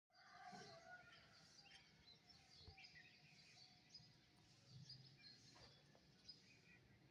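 Faint birds chirping, many short scattered calls and twitters overlapping one another, with no single song standing out.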